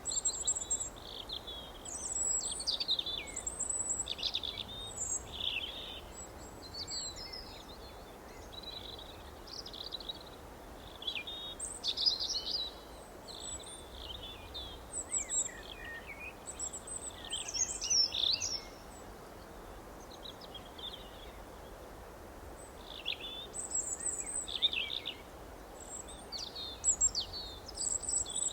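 Songbirds chirping and singing: many short chirps and twittering phrases, several birds overlapping in bursts with a brief lull past the middle, over a soft steady background hiss.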